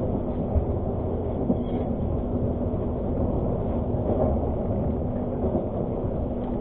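Steady rumble of a passenger train coach running on the line, heard from inside the carriage, with a constant hum underneath. A couple of light knocks come about half a second and a second and a half in.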